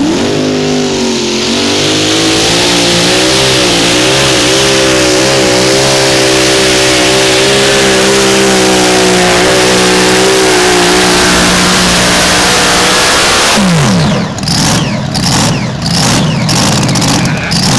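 Modified mini pulling tractor's engine running flat out under load, its pitch wavering slightly, for about thirteen seconds. Then the revs drop suddenly and it goes on with irregular sharp pops and crackles.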